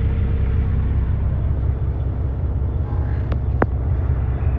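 Steady low rumble of an idling truck engine, with two short clicks about three and a half seconds in.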